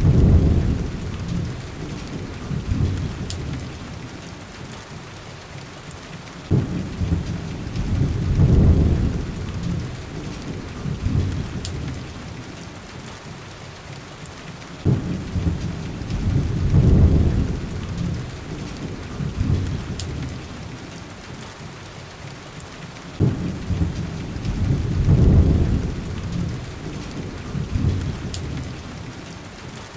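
Heavy rain falling steadily on window glass, with low rolling thunder that swells and fades four times, about every eight seconds. Faint sparse crackles from a wood fire sound through it.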